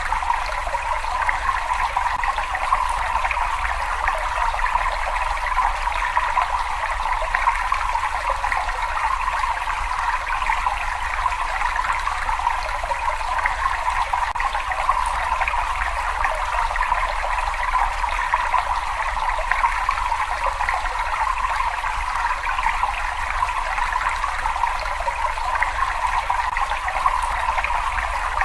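Water running and trickling steadily, a continuous flickering rush with a low rumble beneath, unchanging throughout.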